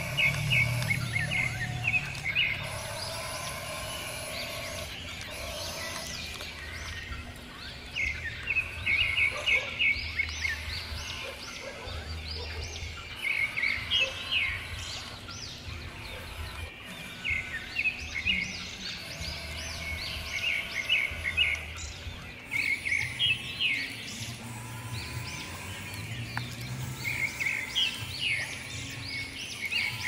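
Birds chirping in quick repeated trills that come in bursts every few seconds, over a low steady hum.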